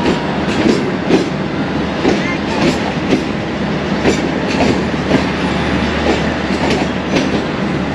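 Passenger train coach in motion: the wheels clack repeatedly over rail joints over a steady rumble.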